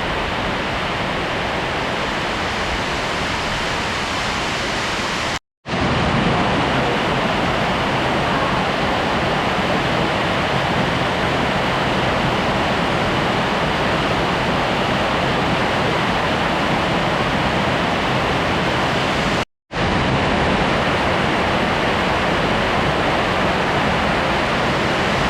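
Heavy monsoon rain pelting a metal roof: a loud, steady, dense hiss, heard from beneath the roof. The sound cuts out for an instant twice, about five and a half and nineteen and a half seconds in.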